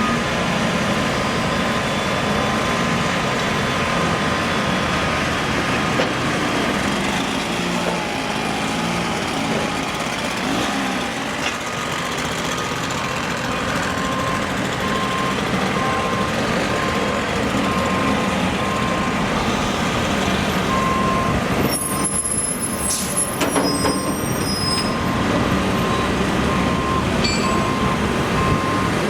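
A heavy construction vehicle's diesel engine running, with its backup alarm beeping about once a second through the second half. A brief high-pitched squeal and hiss comes about two-thirds of the way through.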